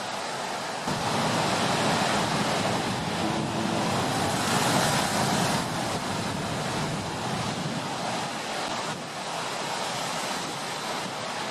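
Heavy storm surf: a continuous rush of breaking waves that surges up suddenly about a second in, is loudest around the middle, then eases back toward the end.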